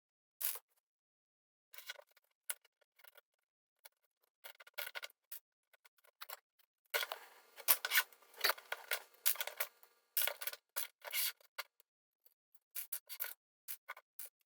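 LEGO bricks and plates being pried apart, giving sharp plastic clicks and scraping in irregular bursts, busiest a little past the middle.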